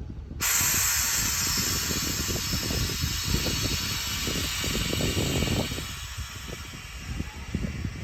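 Compressed air hissing loudly from the stalled train's air brakes, starting suddenly about half a second in, over a low rumble from the train.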